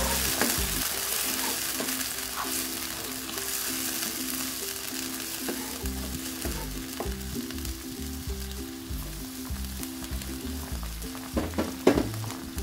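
Boiled white chickpeas and browned onions sizzling in hot oil in a non-stick wok while being stirred with a spatula. The sizzle is strongest at the start and eases off, with a few sharp clicks near the end.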